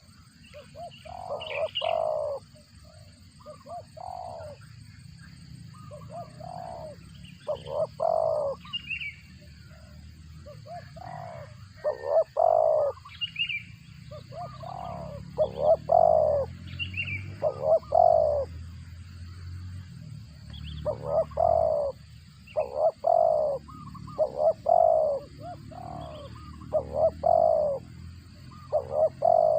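Spotted dove cooing in repeated phrases of two to four short notes, growing louder after the first few seconds, with faint higher chirps between some phrases.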